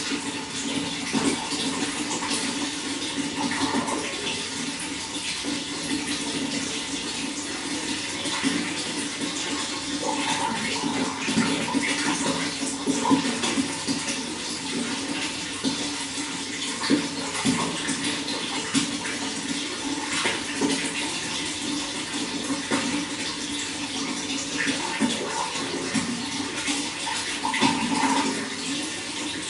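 Running water splashing and gurgling steadily, with many small irregular splashes over a continuous rush.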